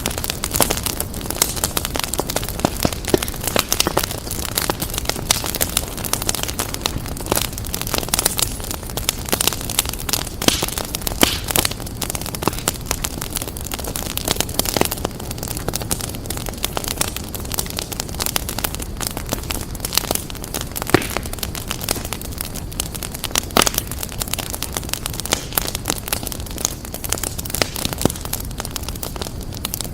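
Wood fire crackling steadily, with frequent irregular sharp pops and snaps over a constant low rush of flames.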